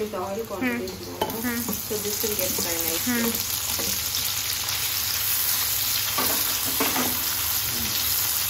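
Diced onions, green chillies and paneer cubes sizzling in hot oil in a nonstick wok, stirred with a wooden spatula. The sizzle grows louder about a second in and then holds steady.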